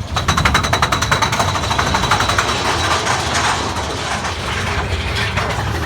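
Mine-train roller coaster running on its track: a fast, steady rattling clatter over a low rumble, with a thin high whine over it for the first half.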